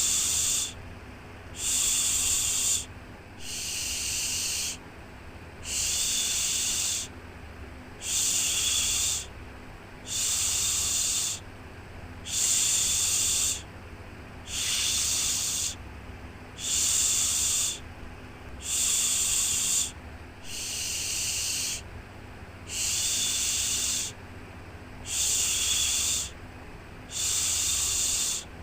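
Shushing 'shhh' sound for soothing a baby, repeated in a steady rhythm: a hiss about a second long, roughly once every two seconds, over a faint low hum.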